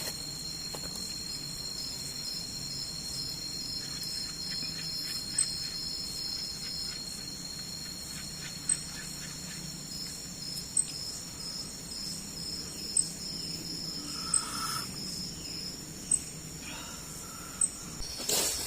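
Forest insect chorus: a steady, high-pitched trilling of several insects, one pulsing rapidly. A short, sharp high chirp repeats about every two seconds.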